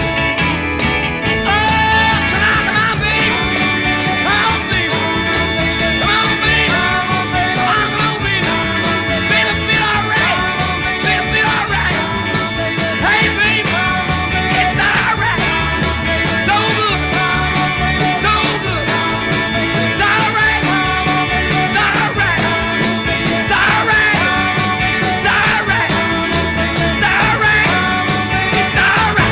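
Rock band playing a frantic double-time coda with a fast, driving drum beat, loud and dense throughout, cutting away as the song ends.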